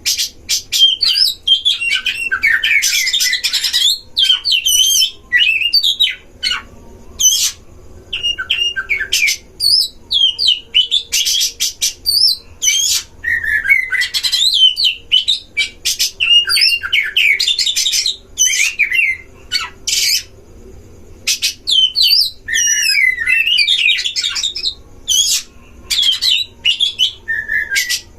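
Oriental magpie-robin song: rapid, varied whistled phrases sweeping up and down, mixed with harsh rasping notes, delivered in loud bursts with short pauses between them.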